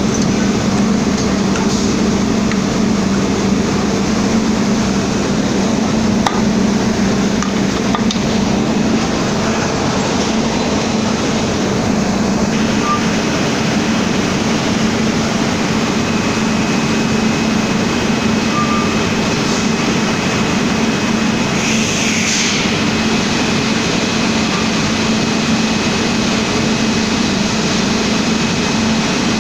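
Milling machine milling the side face of a bearing cap: a loud, steady machine noise with a constant low hum and no change in pace.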